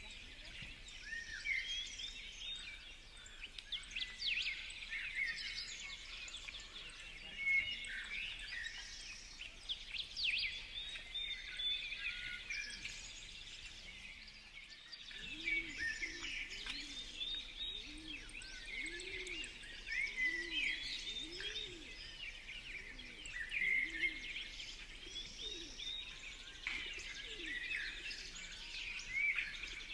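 Many small birds chirping and calling over one another at a feeder. About halfway through, a run of low, repeated cooing notes joins in, which is pigeons cooing.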